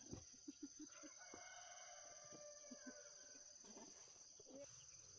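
A rooster crowing once, faint, one long call of about two and a half seconds, over a steady high-pitched insect drone.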